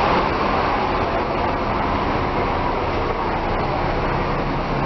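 Steady bus engine and road noise: an even rushing sound with no distinct events.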